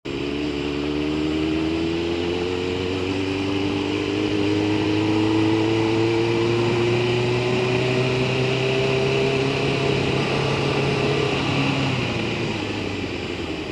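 Sport motorcycle engine pulling steadily, its pitch rising slowly for about eleven seconds, then the engine note drops away near the end as the bike slows. Steady wind noise on the helmet-mounted microphone runs underneath.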